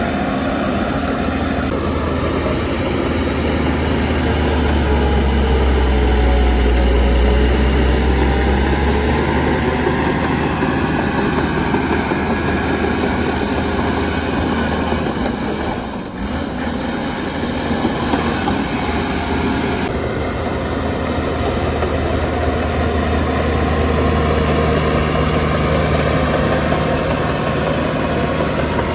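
Heavy diesel earthmoving machinery running and working, a loud continuous low engine rumble that rises and falls in pitch. It swells during the first third, dips briefly about halfway through, and then settles again.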